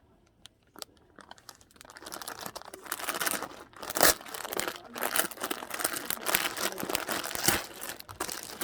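Crinkling and crackling of a crinkly material being handled, starting about two seconds in, with many sharp cracks, the loudest about four seconds in.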